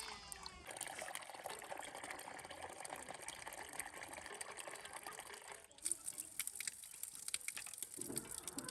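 Running water: a steady trickling splash, turning about two-thirds of the way through into scattered sharp drips and splashes.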